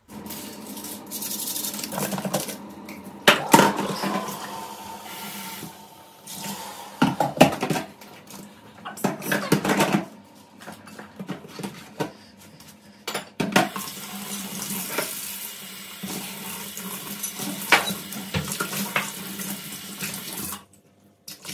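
Kitchen tap running into a sink during hand dishwashing, with dishes knocking and clattering now and then.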